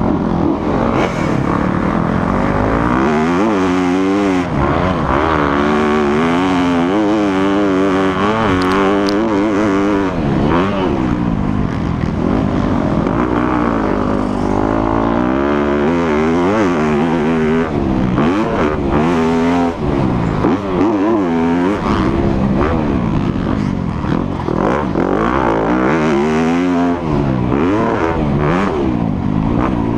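Dirt bike engine being ridden hard, its pitch climbing and dropping again and again every second or two as the throttle is opened and backed off through the gears.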